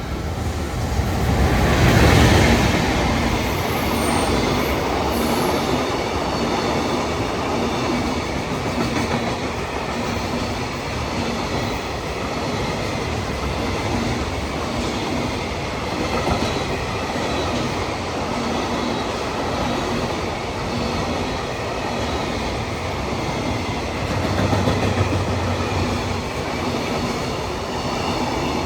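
EF210 electric locomotive and its long freight train of wagons passing through the station without stopping, loudest about two seconds in, then a steady run of wheel and rail noise as the wagons roll by.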